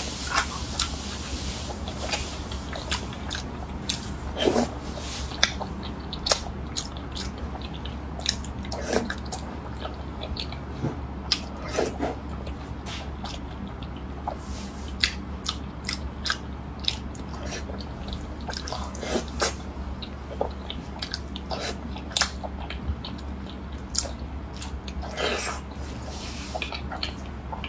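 Close-miked chewing of thick slices of raw salmon sashimi dressed in sauce: a string of short mouth clicks as she bites and chews, over a steady low hum.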